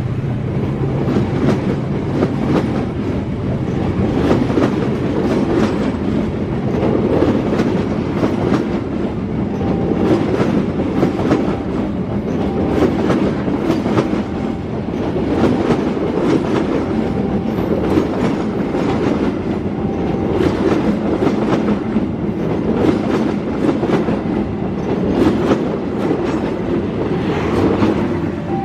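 Passenger train coaches rolling past close by: a steady rumble of steel wheels on rail with a run of sharp clacks as the wheels cross rail joints.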